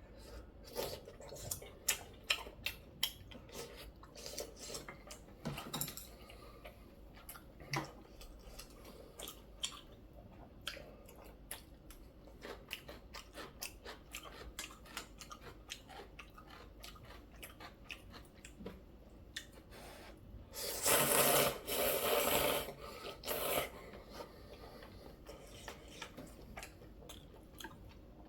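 Close-miked eating: chewing of noodle soup and kimchi with many sharp, crunchy clicks, densest in the first few seconds. About three-quarters of the way in comes a loud slurp of noodles lasting about three seconds, in three pulls.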